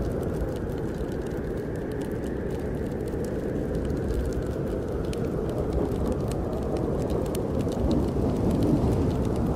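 Steady low rushing of snowstorm wind, with scattered sharp crackles and pops of a wood fire burning in a fireplace.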